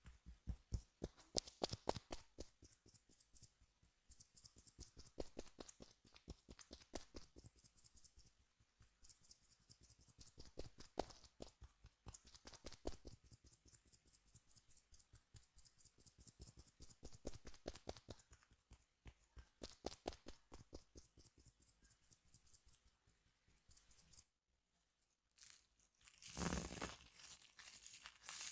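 Small objects scraped close up against a microphone: quick runs of sharp ticks that come in repeated strokes, with a softer, hissier scrape near the end.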